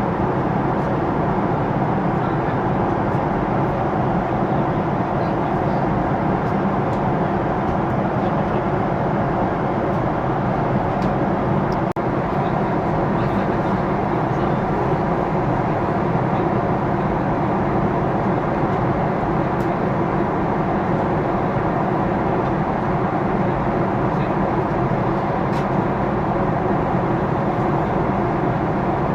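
Steady cabin noise inside a Boeing 777-300ER airliner in flight: an even, unchanging rush of engine and airflow noise.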